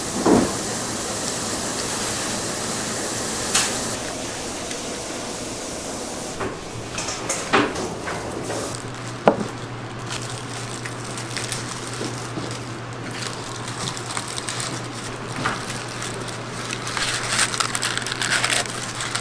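Food-handling clatter: a steady hiss for the first few seconds that stops with a sharp click, then scattered knocks and clicks over a steady low hum, with crackly rustling near the end.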